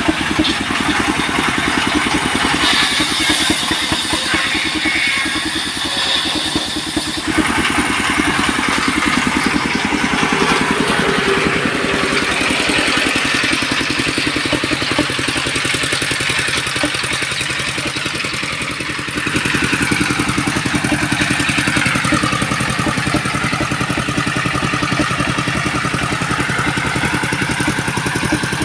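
Engine-driven sawmill machinery running with a steady, rapid engine beat. The sound changes character a few times, and about twenty seconds in a whine dips and rises again, as of a saw working through wood.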